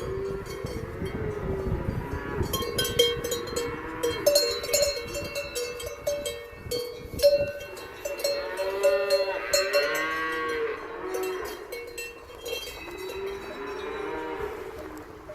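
Cattle mooing, with several calls near the middle and again near the end, while cowbells clank over and over through the first two-thirds.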